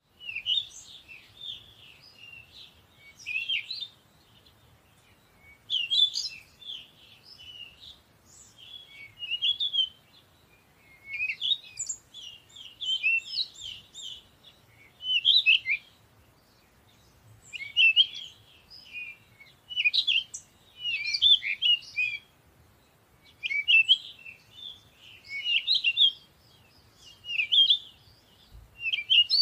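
Songbird twittering in quick, high chirping phrases, one every two or three seconds, with short quiet gaps between.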